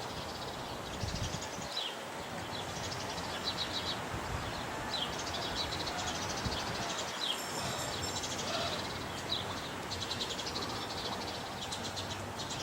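Small birds chirping and trilling again and again over a steady outdoor background hiss.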